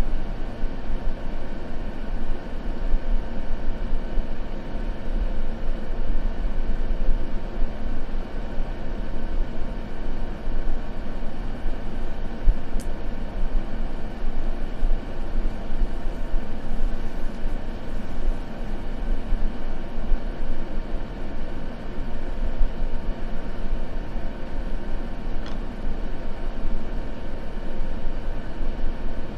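Steady white-noise ambience, heavier in the low end, with a faint click twice.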